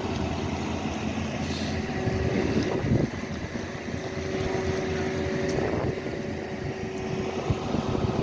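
Street traffic with a vehicle engine idling steadily, and gusty wind buffeting the microphone.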